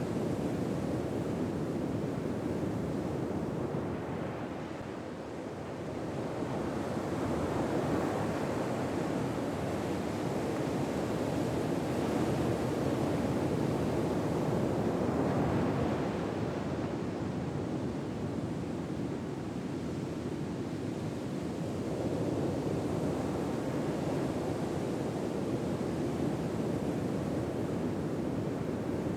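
Ocean waves washing on a shore: a steady rushing surf that slowly swells and eases over several seconds at a time.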